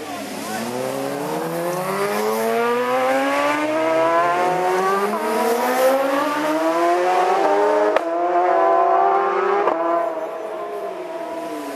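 Racing motorcycle engine at high revs, growing louder as its pitch climbs steadily for about six seconds. A sharp crack comes about eight seconds in and another near ten seconds, after which the note falls and fades.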